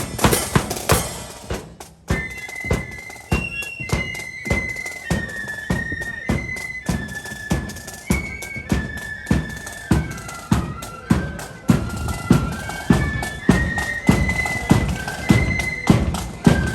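Marching flute band: a snare drum roll fades out, then about two seconds in the flutes come in playing a melody in unison over a steady bass drum beat of about two beats a second.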